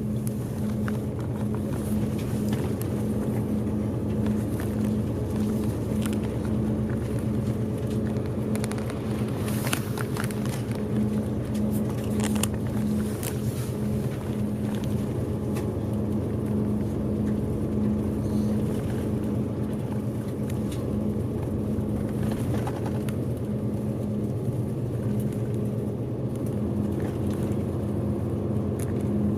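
Bus engine and road noise heard from inside the passenger cabin while driving: a steady hum with a constant low drone and a few faint rattles partway through.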